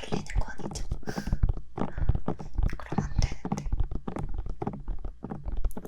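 Bare fingertips tapping quickly on the silicone ears of a 3Dio binaural microphone: a dense, irregular run of soft taps, each with a low thump.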